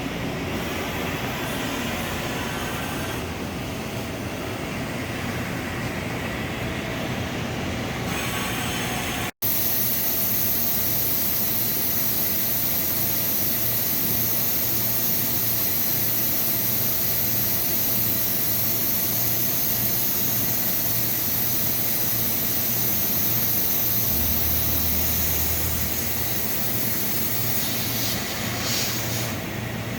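Dahlih MCV 1500 CNC vertical machining center running under power: a steady mechanical noise with a strong high hiss and a faint steady hum. The sound drops out for an instant about nine seconds in, then carries on.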